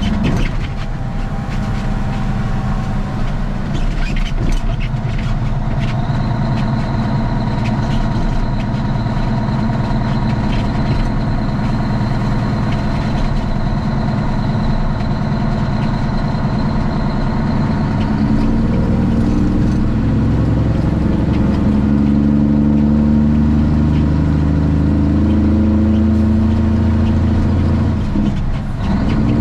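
Straight-piped Cummins ISX inline-six diesel in a Kenworth T800 running steadily as the truck drives. Engine pitch climbs through the second half, then dips briefly near the end.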